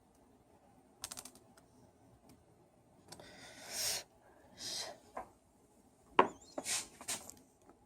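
Handling noises from repair work on a Bosch hammer drill: a quick rattle of clicks, two scraping rubs, then a sharp click and a few short scrapes near the end.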